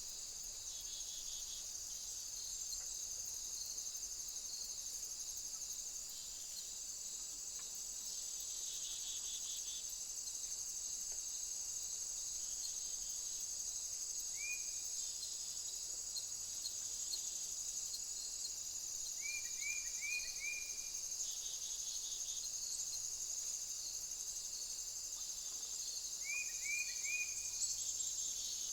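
Steady high-pitched chorus of insects trilling. A few short rising chirps cut through it: one about halfway, then quick runs of three or four later on and near the end.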